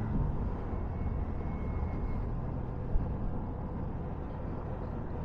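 Steady rumble of a vehicle under way: engine and road noise, with a single small click about three seconds in.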